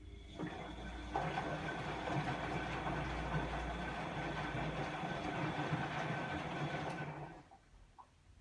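Bosch WAE24162GB washing machine running mid-cycle: a steady motor hum with a whine and water noise starts, steps up about a second in, and cuts off after about seven seconds.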